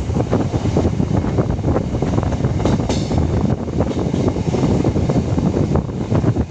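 Electric suburban local train running at speed: a steady rumble with rapid rattling and clatter of wheels and carriage.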